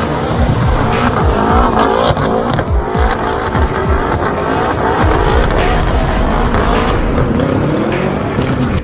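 BMW M5 F10's twin-turbo V8 revving hard, its pitch swinging up and down over and over, with tyres squealing as the car spins donuts.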